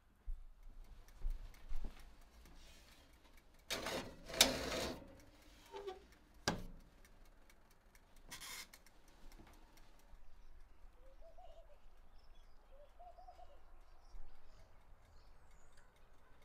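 Several loud, brief noises and a sharp knock in the first half. From about two-thirds of the way in, soft cooing bird calls repeat every couple of seconds, with faint high chirps of small birds.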